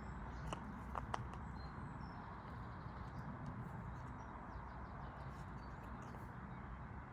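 Faint bird chirps over a steady low background rumble, with two or three light clicks about a second in.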